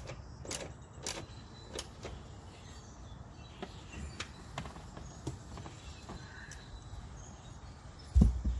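Scattered light clicks and knocks of a car seat being handled and worked into place on its mounting studs, with one heavy low thump near the end.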